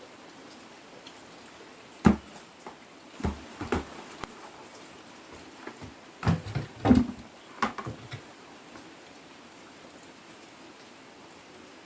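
A steady patter like rain, with a string of sharp knocks and thumps between about two and eight seconds in.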